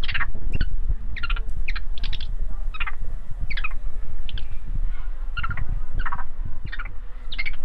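A bird calling over and over in short, pitched notes, roughly two a second and unevenly spaced, over a steady low rumble.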